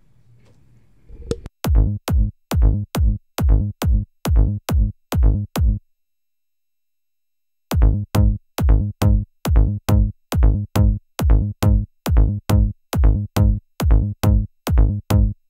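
Psytrance loop of a punchy kick drum with plenty of sub and short bass hits, playing back in a fast, even rhythm. Playback stops for about two seconds midway, then starts again.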